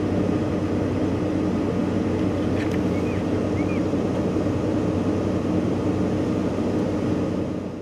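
Vehicle engine running steadily with a low hum, heard from close by; it cuts off abruptly at the very end.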